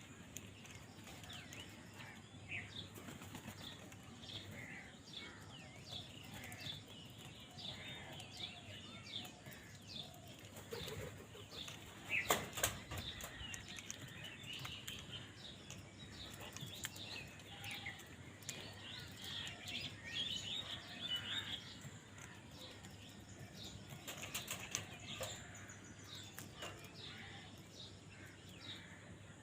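Birds flapping their wings and calling, with many short, high chirps throughout and a louder burst of noise about twelve seconds in.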